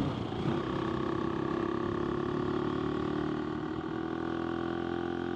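AJP PR7 single-cylinder motorcycle engine running at a steady cruise, its pitch holding even throughout.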